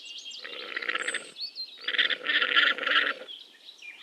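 Alpaca calling twice; the second call is longer and louder than the first. Small birds chirp faintly in the background.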